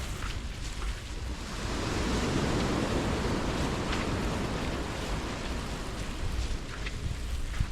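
Surf on a beach: a wave breaks and washes in about two seconds in, swelling and then fading, over a steady low buffeting of wind on the microphone.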